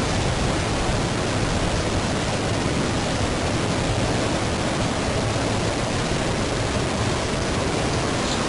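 A steady, unbroken roar-like noise with a low rumble underneath, boosted until it is mostly hiss. It is the prolonged jet-like rumbling heard in the sky with no aircraft in sight.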